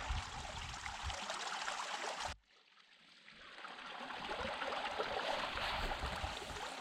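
Running water of a small mountain stream trickling. It cuts off abruptly a little over two seconds in, then a steady rushing noise fades back in.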